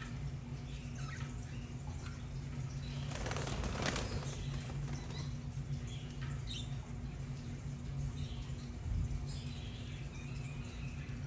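Budgerigars: a brief flurry of wing flapping about three seconds in, with scattered short chirps over a steady low hum.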